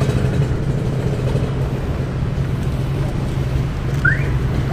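Engine idling steadily, with a short rising chirp about four seconds in.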